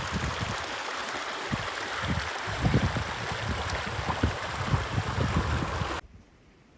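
Steady rushing outdoor noise with irregular low thumps. It cuts off abruptly about six seconds in to near quiet.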